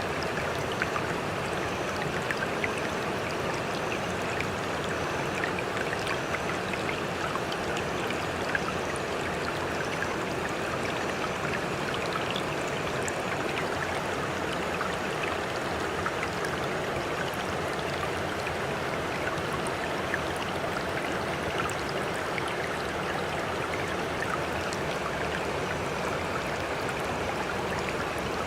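Sea water sloshing and gurgling steadily, with many small splashing ticks. It is a continuous wash without the rise and fall of separate breaking waves.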